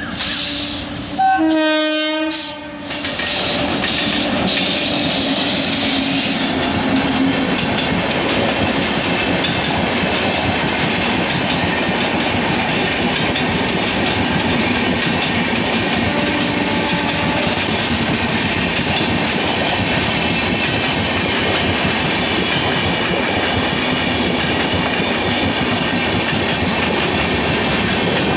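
An electric locomotive's horn sounds for the first two or three seconds. Then an express train runs through at speed without stopping, its passenger coaches' wheels making a loud, steady rolling clatter on the rails.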